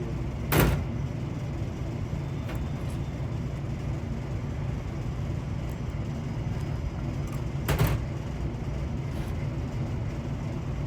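Steady low rumble of outdoor machinery or traffic noise, with two sharp knocks, one just after the start and one about three-quarters of the way through.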